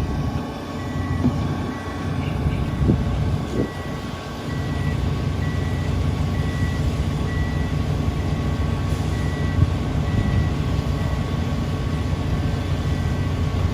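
Heavy construction machine's diesel engine running steadily with a low rumble, while a reversing alarm beeps at about one beep a second.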